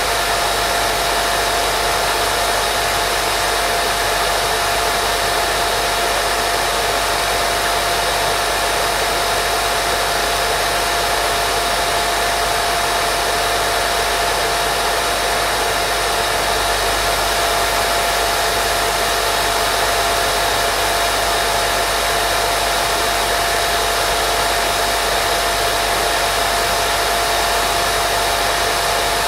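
Steady white noise played as a baby sleep sound: an even, unchanging hiss with a steady hum-like tone running through it.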